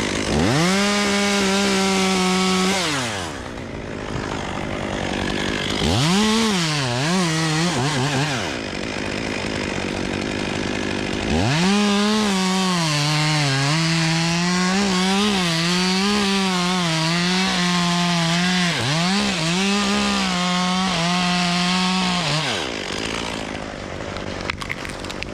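Chainsaw cutting a limb: a short full-throttle cut underneath, a few quick revs, then a longer cut of about ten seconds at full throttle with the pitch dipping under load, before it drops back to idle near the end. The undercut keeps the roped limb from peeling as it comes off.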